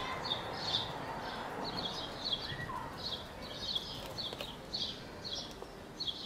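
Small birds chirping over and over: short high chirps, each a quick cluster of notes, about two a second, with one lower call falling in pitch about two and a half seconds in.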